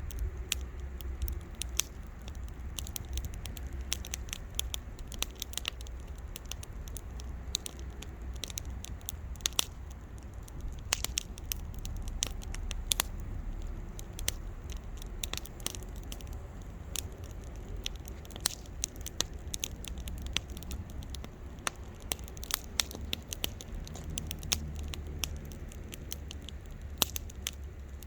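Wood bonfire crackling, with many irregular sharp pops and snaps over a low steady rumble.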